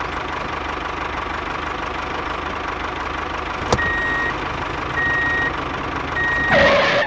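Tractor engine idling steadily. A reversing alarm beeps three times in the second half, and there is a short burst of hiss just before the end.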